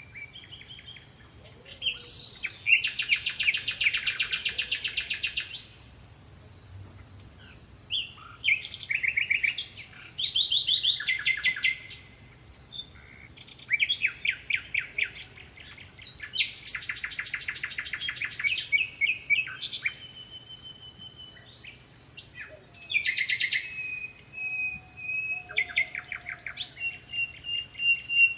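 Songbirds singing: long, rapid trills of quickly repeated notes lasting a few seconds, twice, alternating with shorter chirping phrases and a held whistled note near the end.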